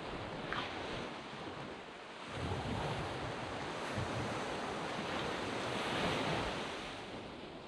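Surf washing onto a sand beach: a wave swells in a couple of seconds in, builds to its loudest about six seconds in, then eases off. Some wind noise on the microphone.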